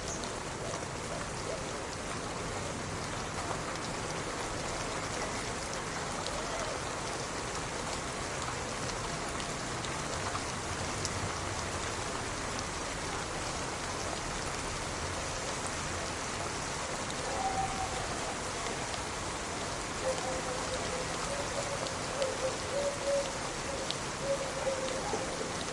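Steady rain falling on a surface: an even hiss with scattered drop ticks. A faint held tone comes in about twenty seconds in.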